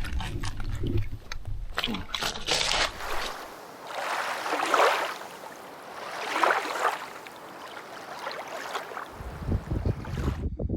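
Lake water splashing and sloshing at the shoreline, in two rushing swells a couple of seconds apart, with wind buffeting the microphone at the start and again near the end.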